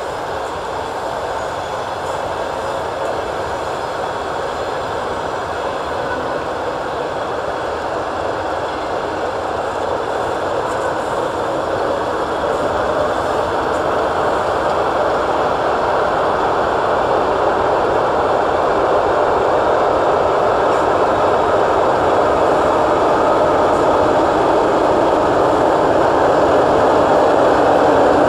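Train running on the rails: a steady noise that grows gradually louder.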